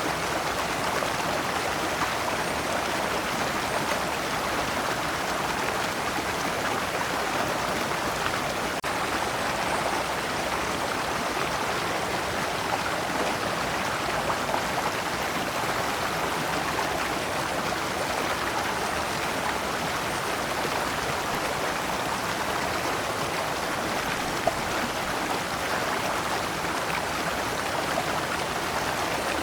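Shallow rocky stream running over stones in small cascades: a steady rushing, splashing water sound.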